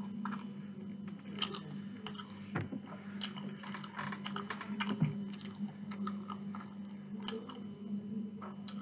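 Close-miked chewing of a mouthful of food, with many short mouth clicks scattered through it, over a steady low hum.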